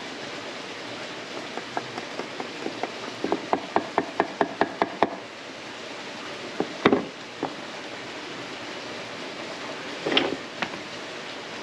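Wooden bow drill being worked: a run of rhythmic strokes, about three to four a second and speeding up, then stopping. A couple of sharp wooden knocks follow, and a short rushing burst comes near the end.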